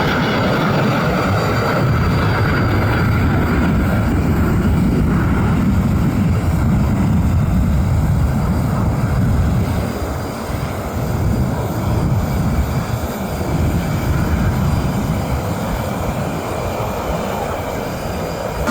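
Twin General Electric CF34-8E5 turbofan engines of an Embraer E175 at takeoff power: a steady, deep jet rumble, with a faint high whine that fades over the first few seconds.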